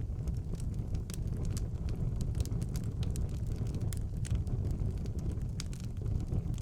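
Wood fire burning in a fireplace: irregular sharp crackles and pops of the burning logs over a steady low rumble of the flames.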